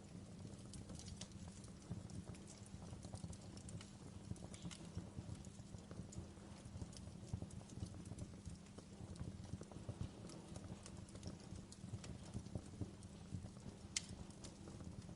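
Wood fire burning in a fireplace, crackling with irregular small pops over a low steady rumble; one sharper pop near the end.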